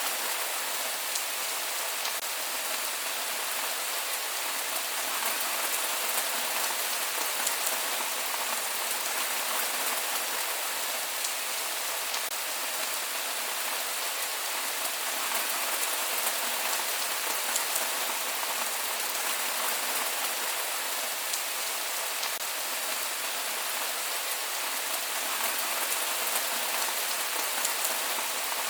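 Steady rain falling on surfaces, a dense even hiss with scattered drop patter and no thunder.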